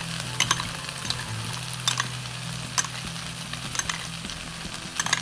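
Chicken and vegetables sizzling in a wok on a gas burner, a steady hiss. A handful of sharp clinks from a spoon against a small bowl come through as cornflour is stirred into water for a slurry.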